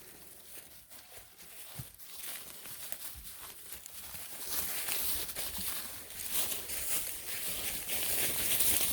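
Crunching and rustling of footsteps through dry brush and leaves on a trail, growing louder about halfway through.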